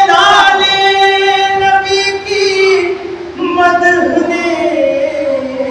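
A solo voice sings a devotional recitation (peshkhwani), holding one long note for about three seconds, then moving into a phrase that slides between pitches.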